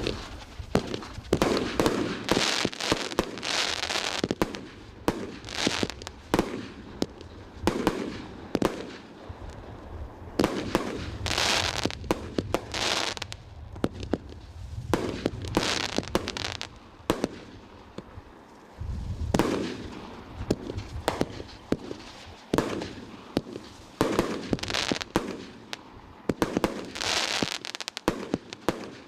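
Fireworks going off in a rapid series of sharp bangs and waves of crackling bursts, one after another, with a deeper boom about two-thirds of the way through.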